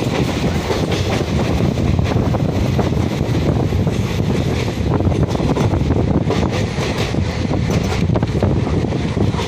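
Moving train: a steady low rumble of the carriage running on the rails, with wind noise on the microphone.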